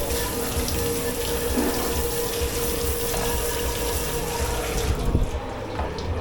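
Water running hard from a tap into a dish-pit sink, cutting off about five seconds in, followed by a couple of knocks of dishware.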